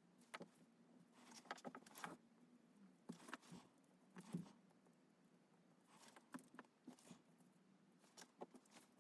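Faint scratching of a drawing tool on paper, in short strokes that come in clusters separated by brief pauses.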